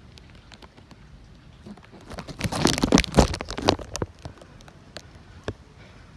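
A burst of close crackling and rustling noise lasting about a second and a half, starting about two seconds in, over a low, steady outdoor noise, with a few separate clicks near the end.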